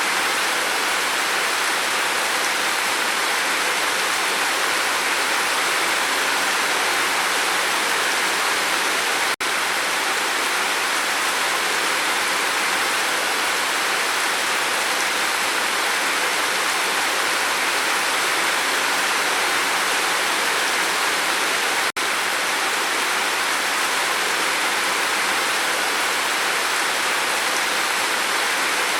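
Steady heavy rain falling on a roof, an even unbroken hiss of water. Twice, about nine and a half seconds in and again about 22 seconds in, the sound drops out for an instant.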